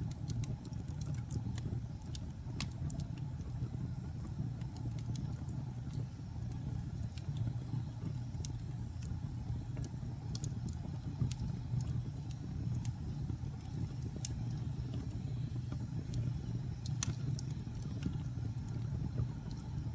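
Wood fire burning in a fireplace: scattered sharp crackles and pops over a steady low rumble, with one louder pop about seventeen seconds in.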